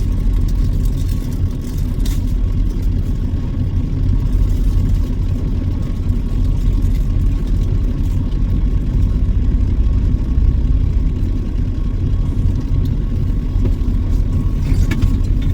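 Truck engine and road noise: a steady low rumble while driving.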